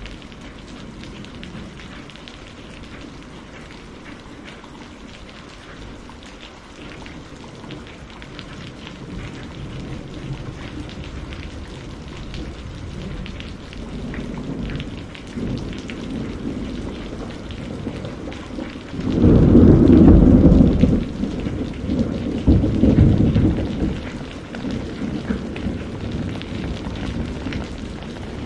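Steady rain, slowly growing heavier, with a loud low roll of thunder about two-thirds of the way through and a second rumble a few seconds later.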